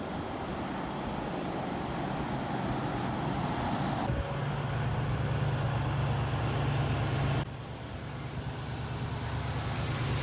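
Truck engine running steadily with road or traffic noise, in short clips joined by sudden cuts about four and seven seconds in.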